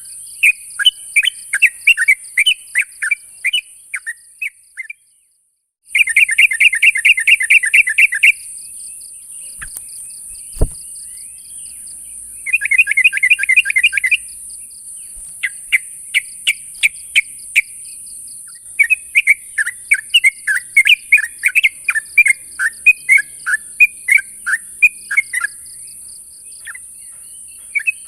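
Yellow-vented bulbul giving its loud challenge calls used to draw out rival males: repeated short, sharp notes with two fast chattering runs, about six seconds in and again near the middle. A steady high hiss runs underneath, and the sound drops out completely for about a second near the start.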